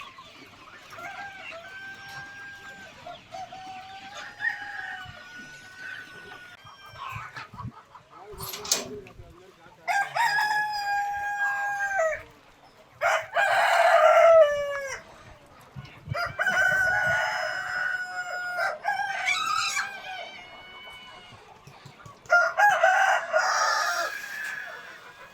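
A flock of Peruvidai country chickens: roosters crowing one after another, each crow lasting a second or two, over hens clucking. The crows are fainter at first and grow louder and more frequent about ten seconds in.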